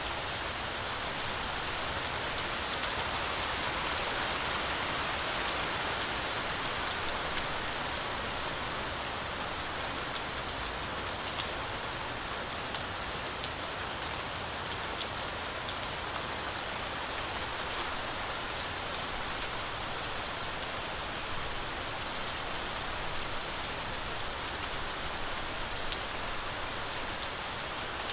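Heavy rain falling steadily, a dense even hiss with many fine drop patters on leaves and surfaces.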